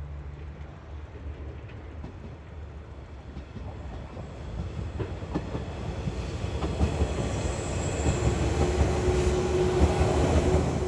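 A train running on rails, its rumble and wheel clatter growing steadily louder over several seconds as it comes closer, with a faint steady tone joining near the end.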